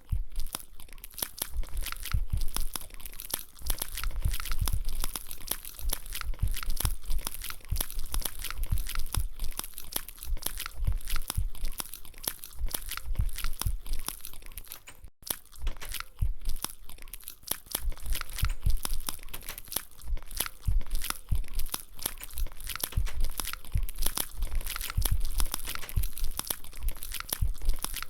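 Close-up crunching and chewing of crunchy food, a dense, continuous crackle of bites, with a brief break about halfway through.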